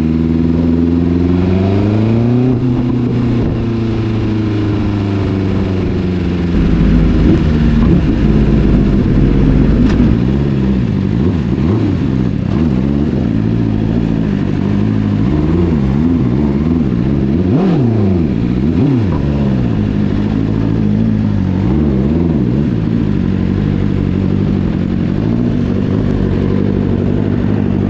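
Engines on the road: one revs up and settles in the first few seconds, then from about ten seconds several engines rise and fall in pitch over one another, as superbikes rev and pass.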